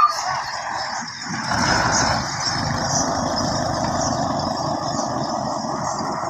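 Heavy 24-wheeler truck's diesel engine running, getting louder and deeper about a second and a half in and holding steady after that. There is a brief sharp click at the very start.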